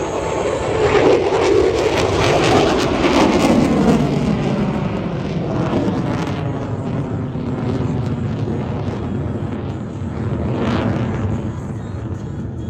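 F-22 Raptor fighter jet's twin Pratt & Whitney F119 turbofans running loud during a low display pass. The pitch falls over the first few seconds as the jet passes, then the noise holds steady.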